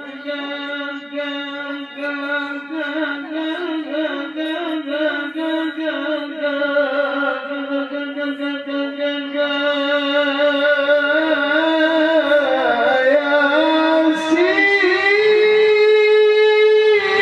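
A male voice reciting the Quran in the melodic tilawah style, drawing out long ornamented notes. About fourteen seconds in, the voice climbs to a higher note and holds it.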